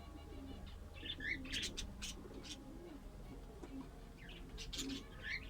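Aviary birds calling: quick high chirps from small cage birds in two short bursts, over scattered low cooing notes.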